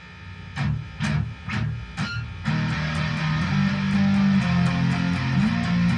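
Guitar intro: four single strummed chords about half a second apart, then from about two and a half seconds in a steady run of strummed chords.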